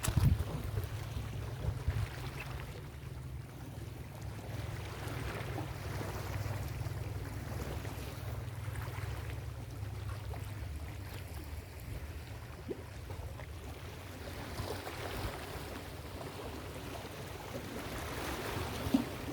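Ocean surf breaking and washing on a beach, with wind rumbling on the microphone. The wash swells louder about five seconds in and again near the end.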